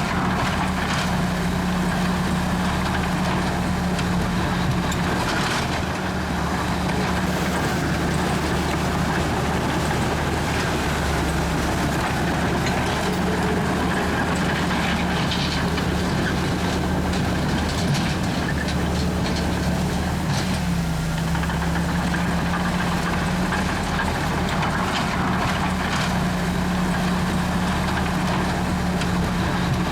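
Komatsu D61EX bulldozer's diesel engine running steadily under working load, its pitch dipping briefly about twenty seconds in, with scattered metallic clanks over it.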